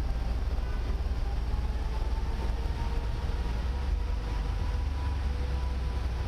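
Steady low rumble of wind and road noise picked up by a bicycle-mounted camera while riding, with a faint steady whine above it.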